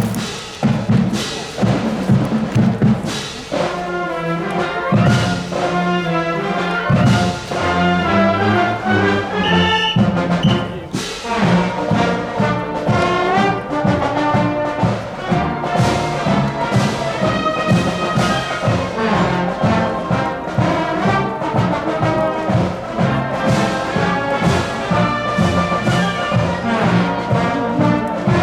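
A marching wind band playing: brass with trombones and trumpets carrying the tune over a steady drum beat.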